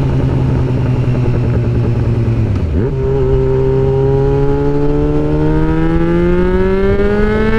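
2009 Yamaha FZ6R's 600 cc inline-four running through an aftermarket M4 exhaust under way. The engine holds a steady note, drops briefly a little under three seconds in, then climbs smoothly in pitch as the bike accelerates.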